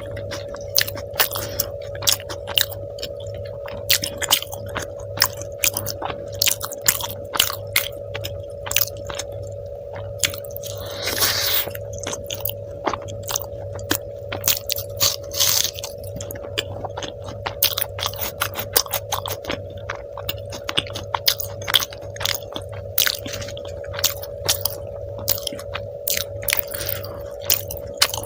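Close-miked eating sounds of a person chewing and biting a meal of bhature with chole and dum aloo: a dense run of wet mouth clicks and smacks, with a longer rustling bite about eleven seconds in. A steady low hum runs underneath.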